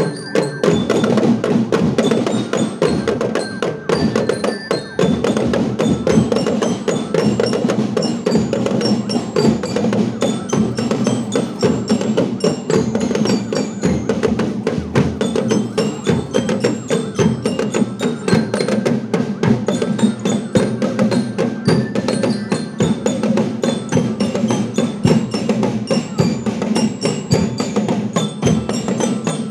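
A marching drum band playing: fast, continuous drumming with high, bell-like glockenspiel notes ringing over it.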